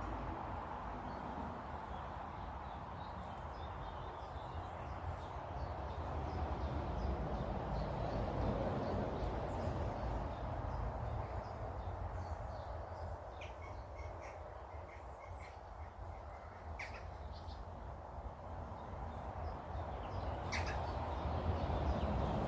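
Wild birds calling: a quick run of short repeated chirps, then a few sharper, louder calls near the end, over a steady low background rush.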